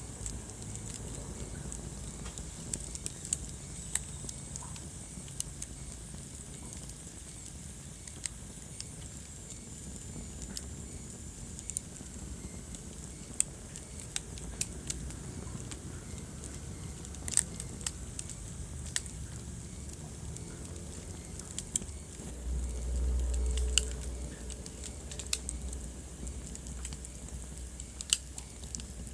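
Wood fire crackling in a fireplace: irregular sharp pops and snaps over a steady soft hiss, with a low rumble swelling briefly about three-quarters of the way through.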